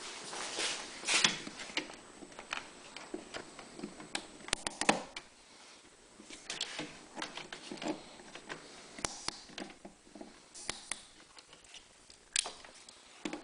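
Scattered small clicks and rustles at irregular intervals: metal hose clamps being handled and fitted onto rubber fuel hoses.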